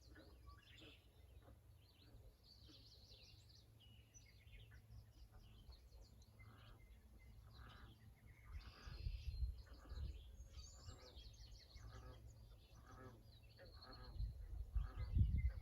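Small birds chirping and twittering steadily in the background, with a low rumble on the microphone about halfway through and again near the end.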